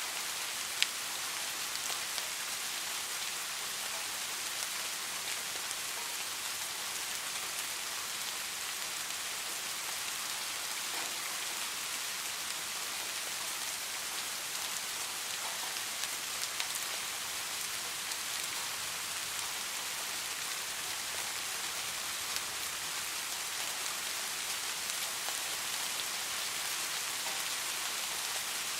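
Steady rain falling, an even hiss with scattered sharp drop ticks, one louder tick about a second in.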